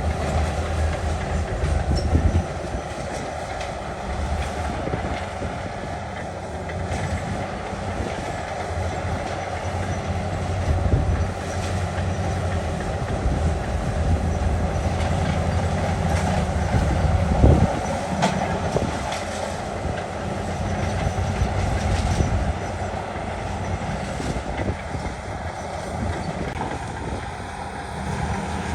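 Heavy diesel earthmoving machine running under load, with a steady low engine rumble, a continuous rattling clatter and a few louder clanks and knocks.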